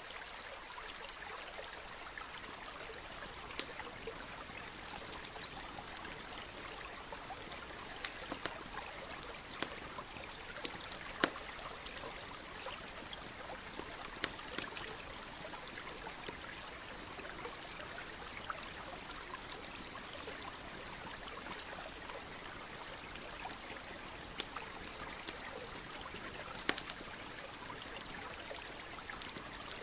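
Campfire crackling, with sharp pops scattered irregularly throughout and the strongest about eleven seconds in, over the steady trickle of a stream.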